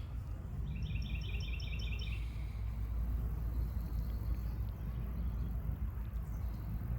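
A small bird gives a quick series of about eight chirps, starting just under a second in and lasting about a second and a half, over a steady low outdoor rumble.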